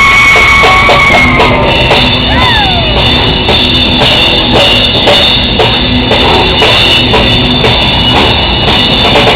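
Live rock band playing loud and steady: a drum kit keeping a regular beat under electric guitar, with a held note in the first second or so and a brief sliding note about two seconds in.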